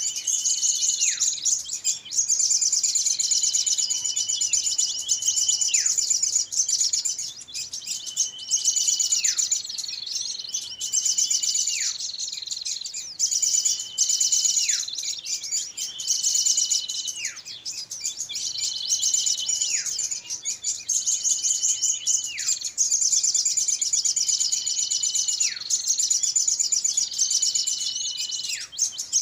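Bird-lure call recording for small birds: a dense, high-pitched twittering chatter with a whistled note that holds and then drops sharply, repeating about every two and a half seconds like a loop.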